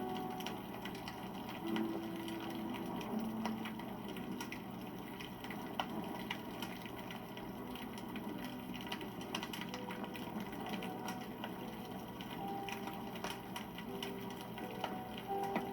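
Wood campfire burning with a steady run of small, irregular crackles and pops over a soft hiss of flame.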